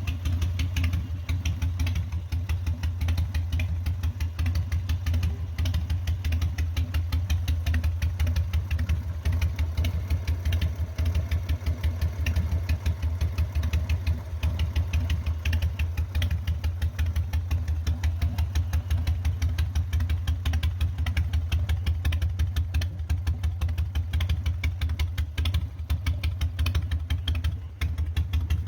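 Motorcycle V-twin engine idling steadily with a rapid, even pulse. The engine is the 80 cubic-inch Evolution V-twin of a 2003 Santee Industries custom chopper.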